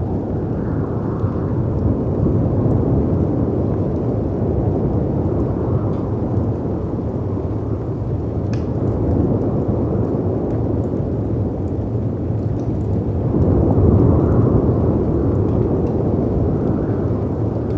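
Layered storm ambience: steady noise of howling wind and sea waves crashing against rocks, swelling to a peak about fourteen seconds in, with scattered faint crackles and pops from a wood fire.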